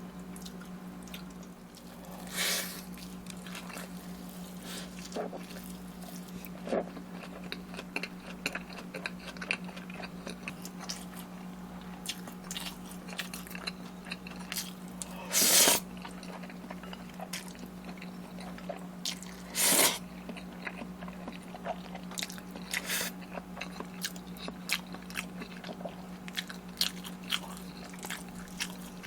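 Close-miked eating: a person chewing and biting with many small wet clicks, and a few louder bites spread through. A steady low hum runs underneath.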